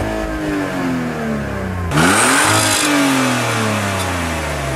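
Car engine revved twice. Each time the pitch climbs quickly and then falls away slowly; the second rev, about two seconds in, is louder and brings a short burst of hiss.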